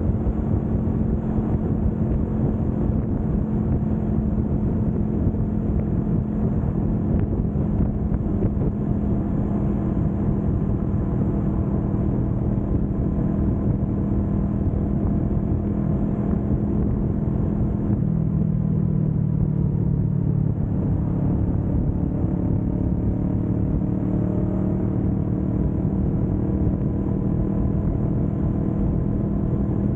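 Kawasaki Vulcan S 650's parallel-twin engine running steadily at speed; about eighteen seconds in its note drops lower, then climbs back up a few seconds later.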